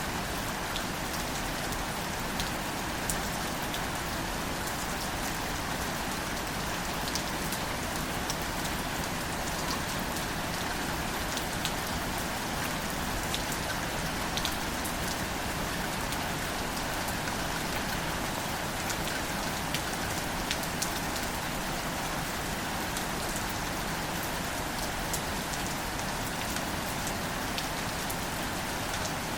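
Steady gentle rain falling on wildflower plants (greater celandine): an even hiss of rain, with single drops ticking sharply here and there.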